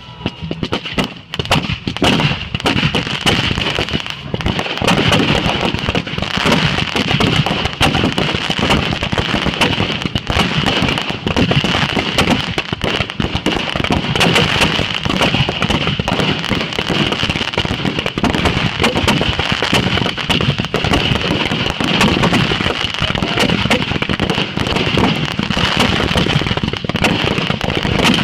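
Fireworks going off in a dense, unbroken stream of rapid bangs and crackles, starting about a second in and keeping up without a pause.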